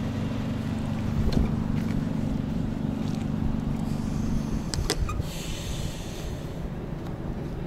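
Vehicle engine idling, a steady low hum that stops about four and a half seconds in, with a few knocks from the camera being handled.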